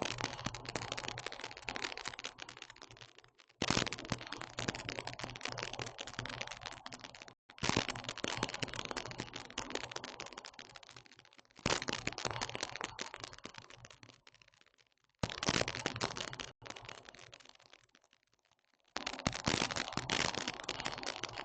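Dense crackling and rapid clicking in six bursts, each starting suddenly and fading away over a few seconds.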